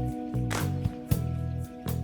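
Background music: a soft acoustic-guitar track with a bass line and a light steady beat.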